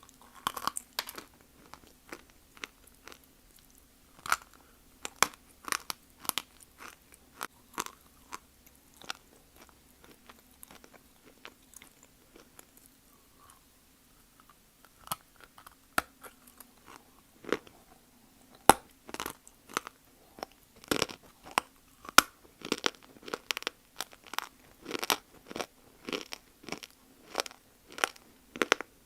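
Close-miked crunching and chewing of dry multani mitti (fuller's earth clay): sharp, crisp bites and crunches, spaced out at first and coming quicker and louder in the second half.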